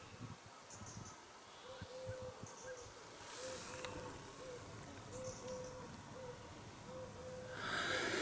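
Birdsong: a bird calling a string of short, low hooting notes, some in pairs and threes, with a few faint high chirps of other small birds.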